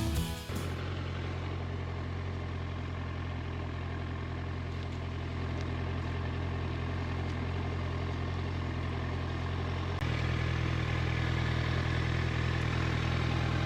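Motorcycle engine idling steadily, its note stepping up slightly about ten seconds in.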